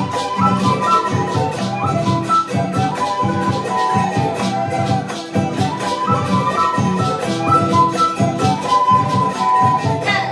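Andean folk music played live: a flute melody over steady rhythmic strumming of charango and other plucked strings.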